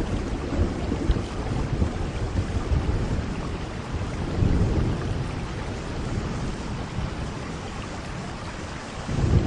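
Steady rain with rolling thunder: low rumbles swell about halfway through and again just before the end.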